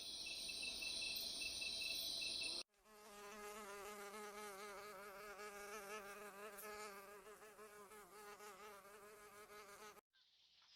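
Insect sounds: a high, shrill buzz with a fast pulsing, then, after a cut about three seconds in, the steady droning wing buzz of a flying insect, wavering a little in pitch.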